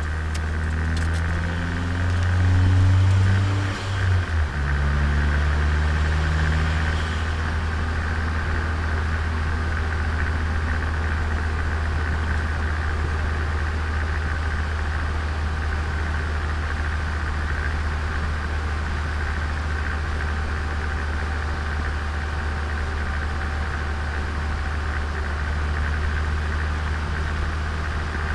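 Turbocharged Nissan Micra engine heard onboard. It rises in pitch under acceleration over the first few seconds, dips briefly about four seconds in as at a gear change, then runs on steadily.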